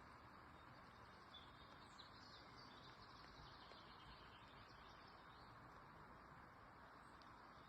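Near silence: a faint steady hiss of outdoor ambience, with a few faint bird chirps about one to three seconds in.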